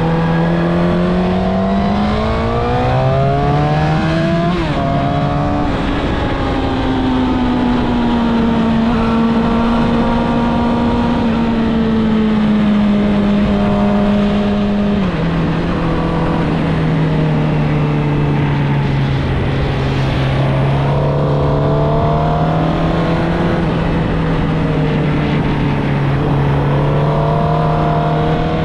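Suzuki GSX-R1000 inline-four engine through its stock exhaust, under way: revs rise over the first few seconds, break at a gear change, then hold steady, dropping abruptly to a lower steady note at another gear change about halfway through.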